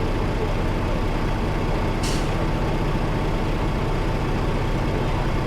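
Semi-truck's diesel engine running steadily, with one short burst of air hiss about two seconds in, typical of a truck's air brakes.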